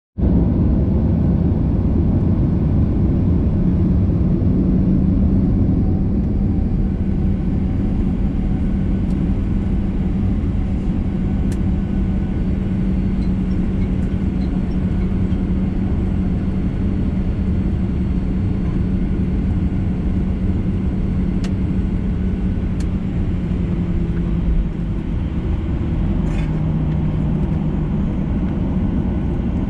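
Steady cabin rumble of a Boeing 737-800 on the ground before takeoff, its CFM56 engines running at low power with a steady low hum that drops slightly in pitch about 25 seconds in. A few faint clicks sound over it.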